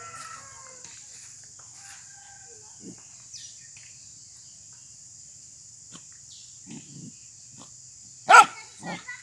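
A dog gives a short bark about eight seconds in, then a smaller one just after, with a few low grunts shortly before, over a steady high hiss.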